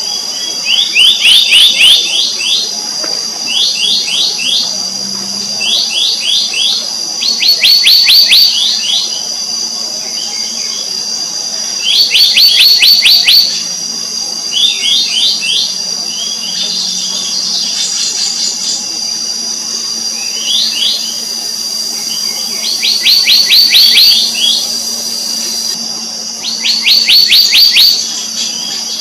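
Black-naped monarch calling: short, rapid series of sharp, ringing notes, each run lasting about a second and repeated every two to four seconds, over a steady high-pitched insect drone.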